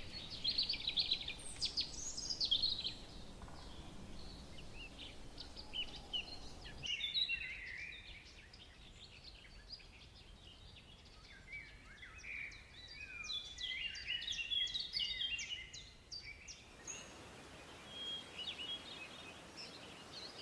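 Several birds chirping and calling, a busy mix of short high chirps and quick falling notes over a faint steady hiss.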